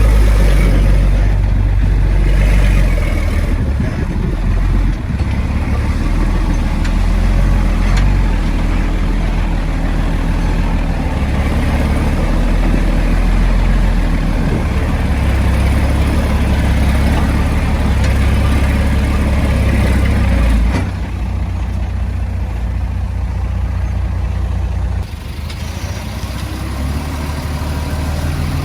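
Heavy-equipment diesel engine running under load, with a steady low rumble. The sound drops noticeably about two-thirds of the way through, and again a few seconds later as the engine eases off.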